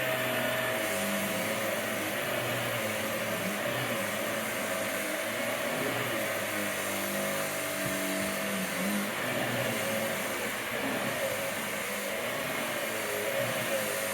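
Vax Air Stretch vacuum cleaner running steadily, its motor holding a constant whine while the lower hum shifts as it is worked over the floor.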